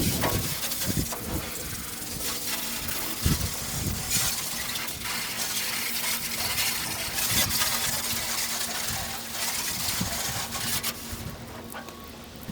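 Water spraying from a hose into a steel pickup truck bed, rinsing out the loose rust and grit left from grinding. The hiss of the spray rises and falls, with a faint steady hum beneath it, and it drops away near the end.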